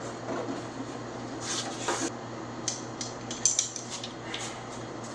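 Irregular metallic clinks and scrapes of hand tools prying at metal trim clips on an old truck cab, a few sharp ticks at a time.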